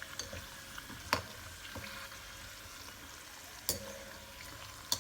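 Gujiya deep-frying in ghee on a low to medium flame: a steady sizzle, with three sharp clinks of a utensil against the pan, at about one second, near four seconds and at the very end.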